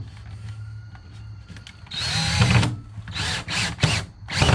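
Cordless drill driving screws into plywood: one longer run about two seconds in, its whine rising, then several short bursts, the last near the end.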